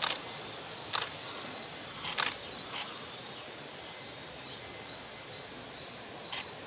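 Outdoor woodland ambience: a steady hiss with a faint, thin high tone. A handful of short, sharp chips or clicks come singly in the first three seconds and again as a close pair near the end.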